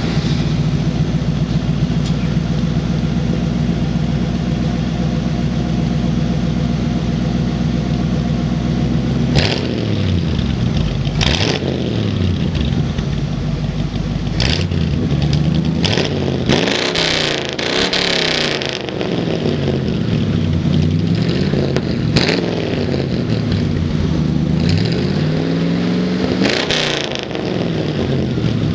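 A 1971 Ford F-100's stock 302 two-barrel V8 exhales through Magnaflow mufflers. It idles steadily just after starting. From about a third of the way in it is blipped repeatedly, each rev rising and falling back, with one rev held higher for a couple of seconds in the middle.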